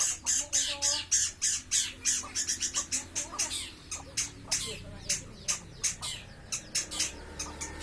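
Long-tailed shrike (cendet) singing in a continuous run of rapid, harsh, scratchy notes, several a second, in a dense cascading stream.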